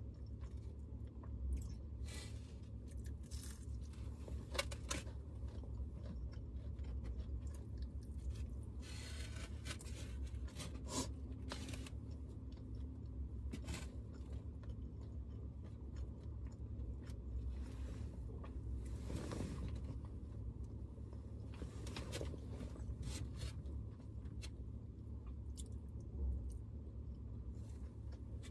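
Someone eating close to the microphone: irregular chewing, crunches and rustles over a steady low hum.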